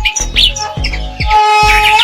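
Orange-headed thrush singing a fast, varied run of whistled notes over electronic music with a steady bass beat and held tones.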